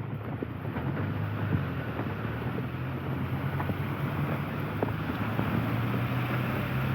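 Rainy street ambience: a steady low hum, like a running vehicle engine, under a wash of noise, with many light scattered ticks of raindrops, growing a little louder toward the end.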